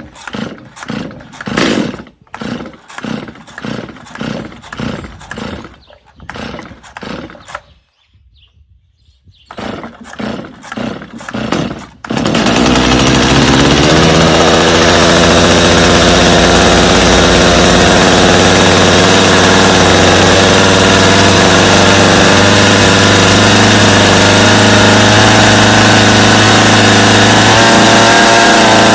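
Stihl two-stroke chainsaw being pull-started on full choke: a string of quick cord pulls, about two a second, a short pause, a few more pulls, then the engine catches about twelve seconds in and keeps running steadily.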